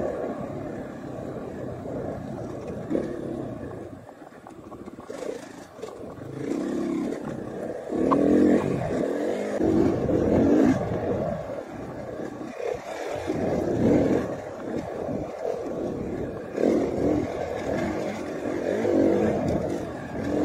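KTM 500 EXC single-cylinder four-stroke enduro engine riding on the trail, its note rising and falling with the throttle. It eases off twice and pulls hardest near the middle.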